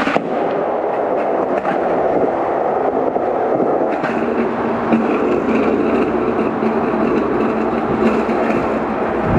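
Skateboard wheels rolling steadily over concrete, a continuous rumble, with a sharp knock of the board right at the start.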